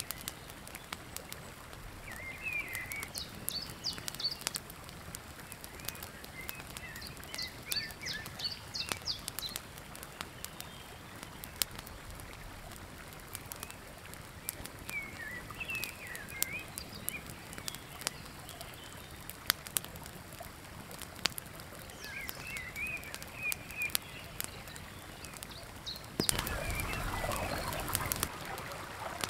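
Woodland birds singing short chirpy phrases every few seconds over a faint outdoor background, with scattered small sharp clicks. Near the end a louder, even rushing noise comes in.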